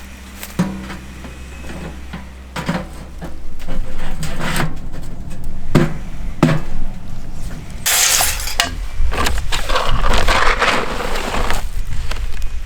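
Scattered knocks and clatter of hard objects being handled, then from about eight seconds in a rough rushing, rustling noise in several stretches, over a low rumble.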